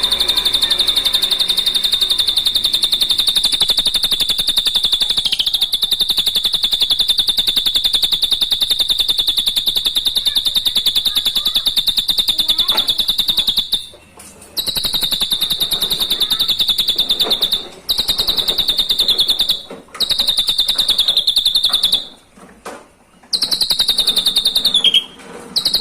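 Drongo song: a rapid, buzzy, high trill held at one pitch. It runs unbroken for about fourteen seconds, then comes in several long runs split by short pauses.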